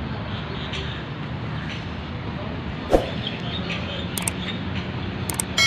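Distant diesel train approaching the station, a low steady rumble under open-air ambience, with a sharp knock about three seconds in and a few light clicks near the end.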